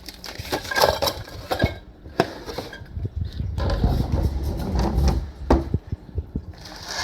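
Hands handling treat packets and small items into a box: a steady run of irregular clicks, knocks and light clinks with some rustling.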